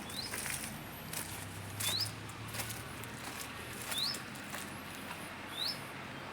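A small bird chirping: four short rising chirps, one about every two seconds, over light clicks and rustling.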